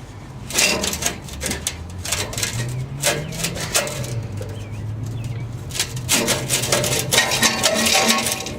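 Hand tools clicking and clanking rapidly against the exhaust fittings under a car as the exhaust is unbolted, over a low hum that shifts in pitch.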